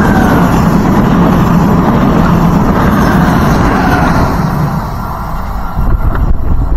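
Trenitalia 'Rock' double-deck electric multiple unit passing close by: a loud, steady rumble of wheels on rail with a faint whine over it. The rumble eases about five seconds in as the train moves away, and gusty buffeting follows near the end.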